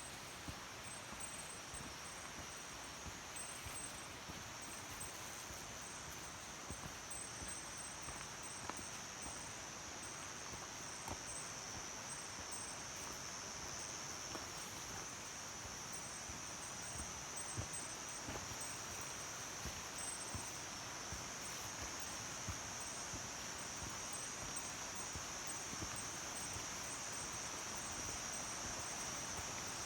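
Insects chirring in a steady, high-pitched buzz that grows a little louder toward the end, over a soft, even rush of mountain stream water.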